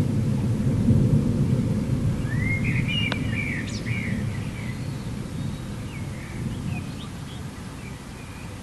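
Thunder rumbling low and slowly dying away. Birds chirp briefly a couple of seconds in and again near the end.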